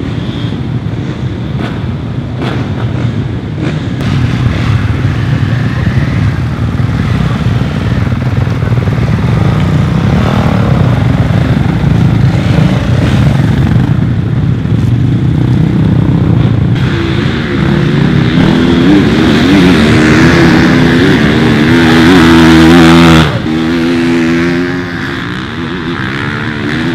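Motocross bike engines running and revving. About two-thirds of the way through, a nearer bike's engine comes to the fore with a wavering, rising-and-falling rev note. It is loudest just before it drops off sharply.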